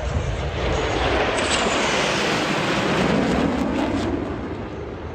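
F-16 fighter jet passing by: the jet noise swells to a peak near the middle and then fades, its pitch falling as it goes past.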